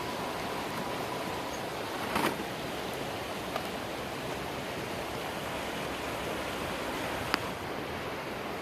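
Steady rushing of a swiftly running creek, with a few sharp clicks, about two seconds in, once more a second later, and the sharpest near the end.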